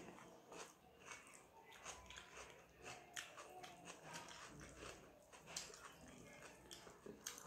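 Faint eating sounds from someone eating rice and dal by hand: quiet chewing with small wet mouth clicks at irregular intervals.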